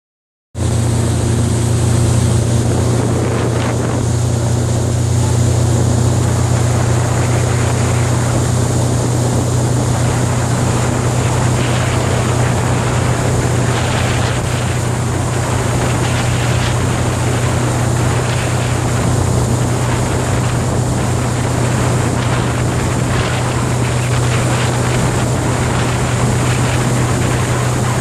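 Motorboat engine running at a steady speed under way, a constant low hum, with wind on the microphone and the rush of water. It starts about half a second in.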